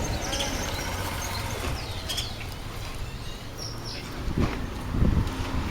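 Outdoor ambience: small birds chirping now and then over a steady low rumble, with a few heavier low bumps near the end.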